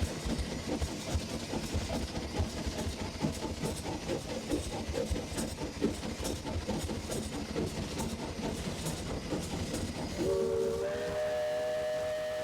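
No. 40 steam locomotive working upgrade, its exhaust chuffing rapidly amid running clatter heard from the cab. About ten seconds in, its multi-tone steam whistle sounds and is held.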